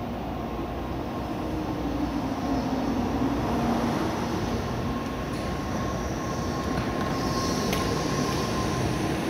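N700A Shinkansen train running alongside the platform: a steady rumble of wheels and running gear with a held electric hum. It grows louder about two seconds in.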